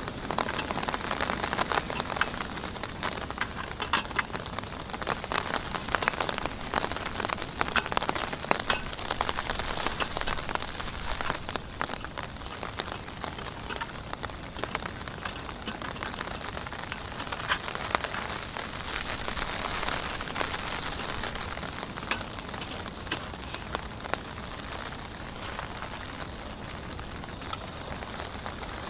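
Heavy rain falling steadily, with many sharp drops pattering on a nearby surface, denser in the first half.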